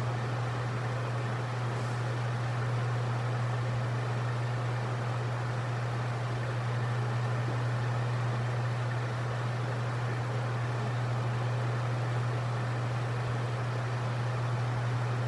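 Steady low hum over an even hiss, unchanging, with no knocks or footfalls.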